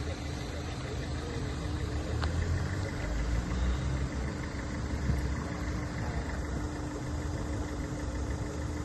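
A motor vehicle's engine idling, a low steady rumble with a constant hum.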